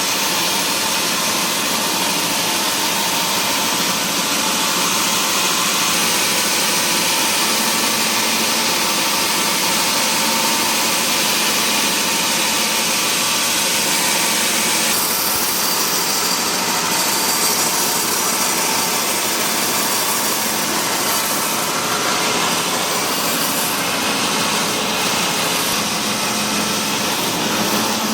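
Sawmill machinery running steadily, a loud continuous mechanical noise, its higher-pitched part changing about halfway through.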